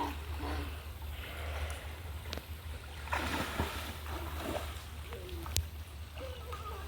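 Creek water splashing around people wading and playing in it, with faint children's voices and a steady low rumble underneath.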